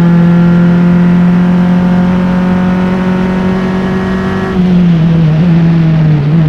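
Onboard sound of a Formula Enterprises single-seater race car's engine running hard at a steady high pitch. About four and a half seconds in, the revs drop and waver.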